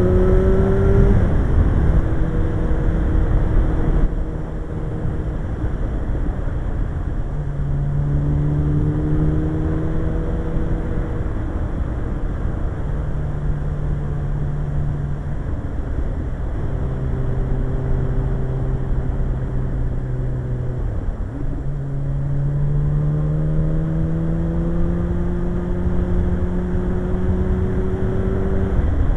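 Suzuki GSX-R1100 motorcycle's inline-four engine running under way. The engine note holds steady, drops and climbs again several times as the throttle and gears change, over a heavy low rush of wind noise.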